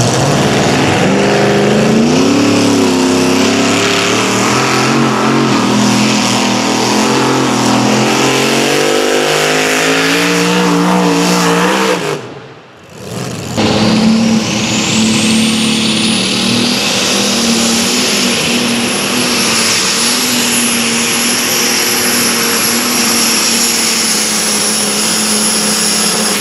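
High-revving engine of a pulling tractor or truck under full load, its pitch climbing in steps. About halfway it drops away briefly, then another engine comes in at high revs with a high whine that rises over a few seconds and holds steady.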